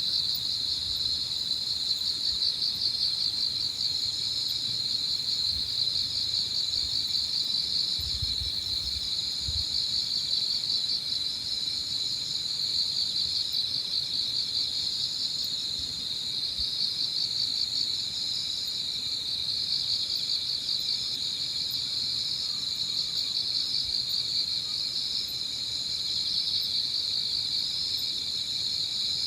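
Early-autumn evening chorus of crickets and other insects: a dense, steady trilling, with a higher chirring that comes and goes in phrases of a few seconds above it.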